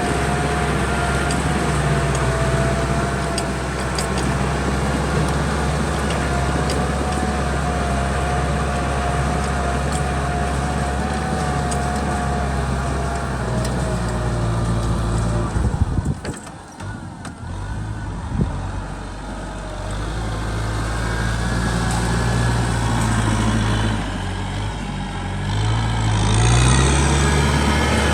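Kubota M6040 tractor's diesel engine running steadily while it plows a muddy field. About halfway through it suddenly goes much quieter for a few seconds, then comes back up, and near the end the engine pitch rises as it revs.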